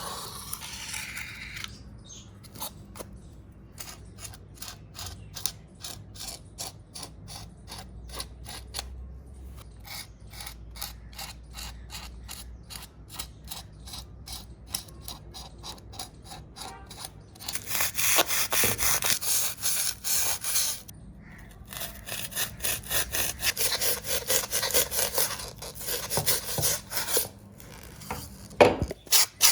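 Rhythmic back-and-forth abrasive hand strokes rubbing on the hammer, about four strokes a second. They are quieter at first and grow much louder a little past halfway, with a couple of short pauses.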